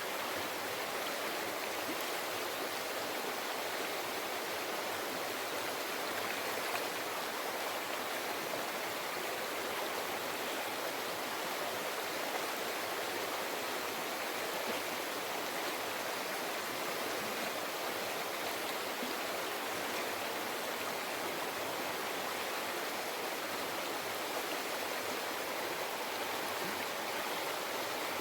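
Mountain river flowing over rocks: a steady rushing and babbling of water.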